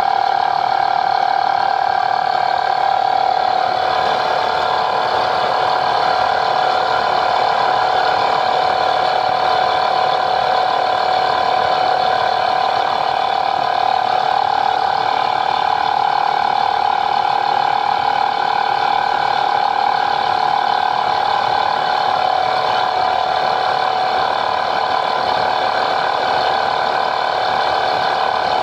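A machine running steadily at one pitch, a whir with a fine rapid clatter in it, unchanging throughout.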